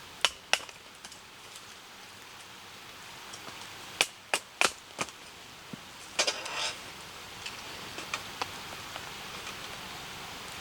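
Sharp wooden snaps and knocks of small firewood being broken or split: two near the start, a quick run of four about four seconds in, and a short scraping crunch after six seconds. Under them runs a steady hiss with scattered light ticks.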